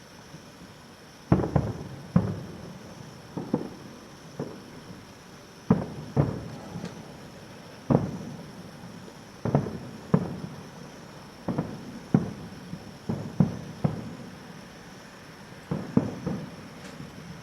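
Aerial firework shells bursting in a long run of booms, about one a second at uneven intervals, some coming in close pairs, each fading out briefly.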